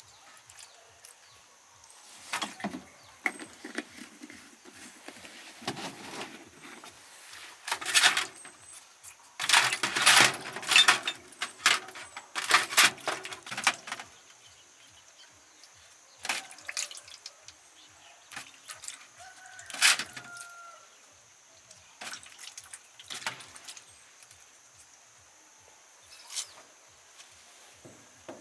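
Irregular clinks, knocks and rustles of objects being handled, loudest about 8 seconds in and again from about 10 to 14 seconds in.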